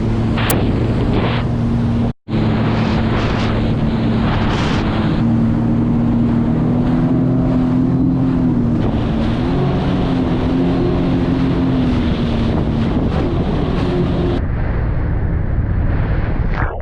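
A jet ski's engine running steadily at speed, its pitch wavering slightly, with wind buffeting the microphone and water spray hissing. The sound cuts out for an instant about two seconds in.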